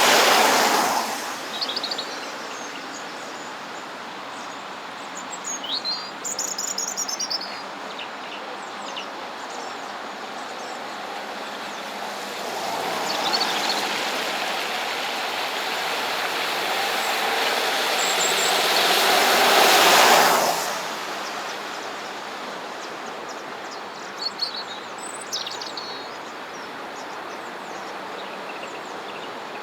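Passing road traffic: one vehicle fades away about a second in, and another builds up from about twelve seconds to a peak and drops away sharply near twenty seconds. Small birds chirp in the quieter stretches between.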